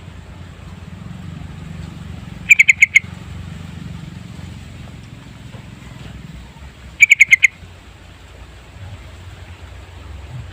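Yellow-vented bulbul calling: two quick bursts of five or six bubbling notes each, about two and a half and seven seconds in. A steady low hum runs underneath.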